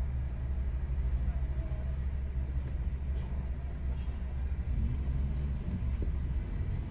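Steady low rumble of a car idling and creeping forward, heard from inside the cabin, with a faint click about three seconds in.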